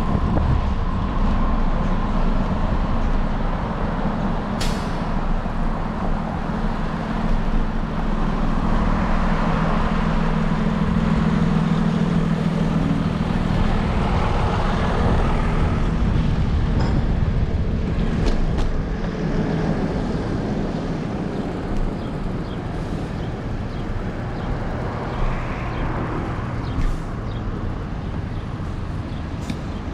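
Heavy vehicle's engine running close by in city street traffic, steady for most of the time and fading away after about twenty seconds, over continuous road noise. A single sharp click sounds about five seconds in.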